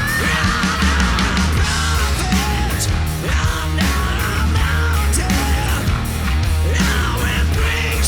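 Rock band playing live, with heavy bass and drums under a high melodic lead line that bends and slides in pitch.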